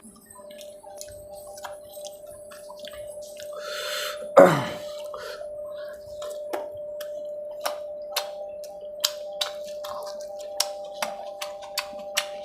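Close-miked eating sounds: wet mouth clicks and lip smacks from chewing at an irregular pace, with one louder slurp about four seconds in. A faint steady hum sits underneath.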